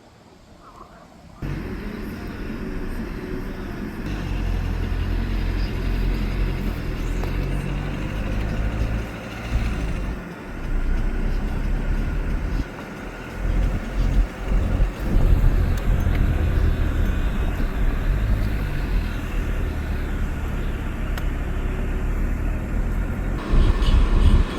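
A motor vehicle's engine running close by, a steady low hum that starts suddenly just over a second in and dips briefly a few times.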